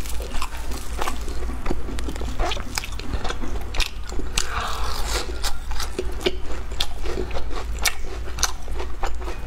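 Close-miked eating sounds of chewing soft, stretchy mochi bread with a chocolate-coated crust: irregular wet mouth clicks and small crackles, with a brief rustle about halfway, over a low steady hum.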